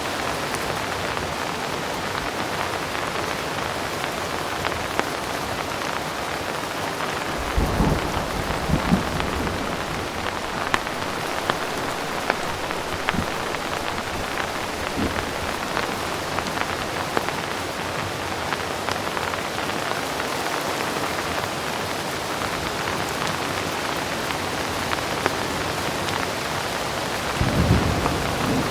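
Heavy rain falling steadily, an even hiss of drops. A low rumble of distant thunder comes about a quarter of the way in, and another begins just before the end.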